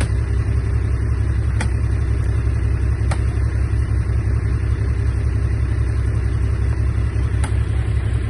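Komatsu D31A bulldozer's diesel engine running with a steady, deep rumble, with a few sharp clicks over it.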